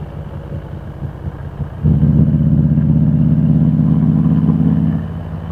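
Harley-Davidson Road Glide's V-twin engine under way. About two seconds in it gets much louder as the throttle opens, holds there, and eases back near the end.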